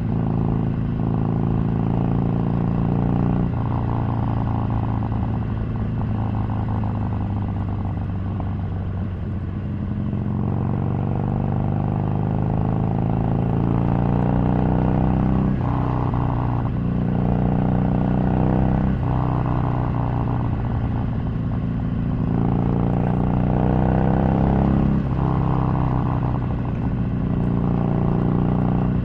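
Harley-Davidson Sportster 883's V-twin engine under way on the road, its pitch climbing and then stepping down at each gear change several times. It eases off around eight to ten seconds in, then pulls up again.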